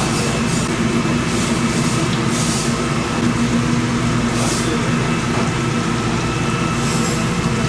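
Steady loud rumble of commercial kitchen equipment with a constant hum, and short hissing bursts every second or two.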